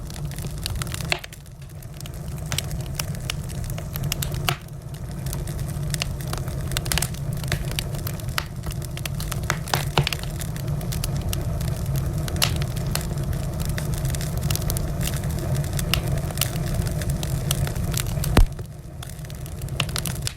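Wood fire crackling, with frequent sharp pops over a steady low rumble. The rumble drops away for a few seconds about a second in and again near the end, just after one loud pop.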